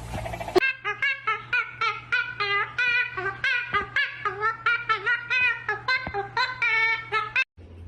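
A rapid run of short, high-pitched vocal calls, about three a second, that stops abruptly shortly before the end.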